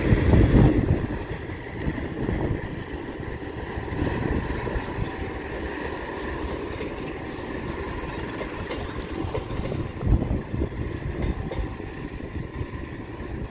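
Passenger train's coaches rolling away over the rails, wheels rumbling and clacking on the track. Loudest at the start, then fading steadily as the train draws off, with a few sharper clacks along the way.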